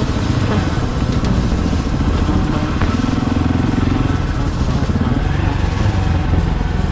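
KTM 690 Enduro R's single-cylinder engine running steadily while the bike is ridden.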